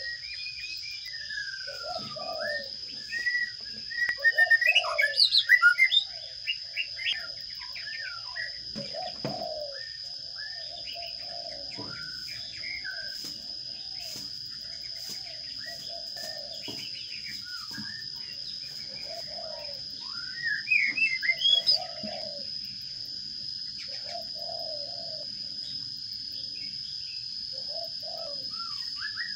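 Sparrows chirping, with two louder bouts of rapid chirps, about four and twenty seconds in. A dove coos repeatedly in the background, and a steady high tone runs underneath.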